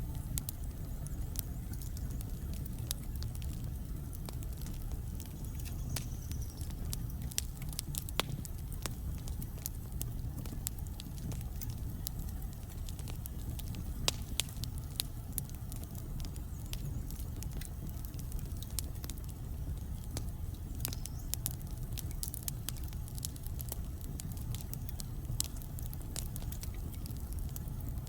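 Wood fire burning in a fireplace: a steady low rumble of the flames with irregular crackles and occasional sharper pops from the burning logs.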